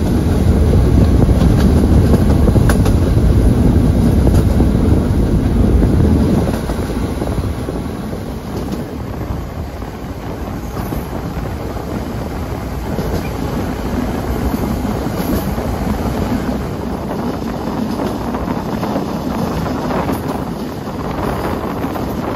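PESA Link diesel multiple unit running along the track, heard by its window. A loud low rumble fills the first six seconds or so, then drops to quieter running noise with wind on the microphone.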